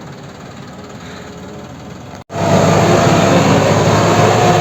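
Diesel tractor engine running steadily, heard more distantly at first. About two seconds in there is an abrupt cut to the engine running much louder and closer.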